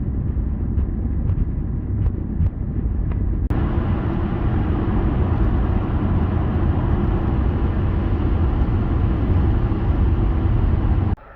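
Car driving: a steady low rumble of road and engine noise, with a few faint clicks in the first three seconds. The sound changes abruptly about three and a half seconds in and cuts off sharply near the end.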